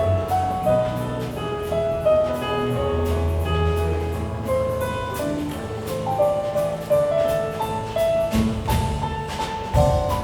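Live jazzy music from piano, bass and drums, with drum strokes through it and a cluster of louder hits near the end.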